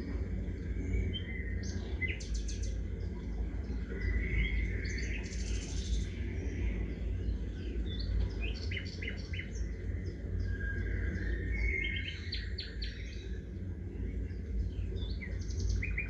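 Several songbirds chirping and calling in short high notes and quick trills, overlapping here and there, over a steady low rumble.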